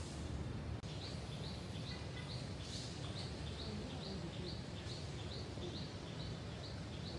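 A bird chirping over and over: short rising chirps, about three a second, starting about a second in, over a steady low rumble of background noise.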